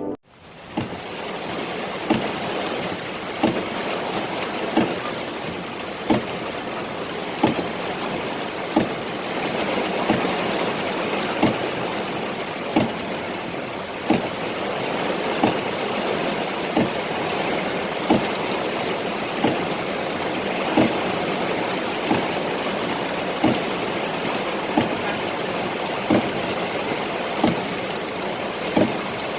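Steady roar of the flooding Lembah Anai waterfall and rushing floodwater, with a short thump repeating about every second and a third.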